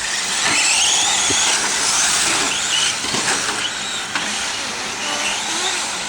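Electric 4x4 RC racing trucks running laps, their motors whining and gliding up and down in pitch as they speed up and slow down, over a steady hiss, with a few sharp clicks.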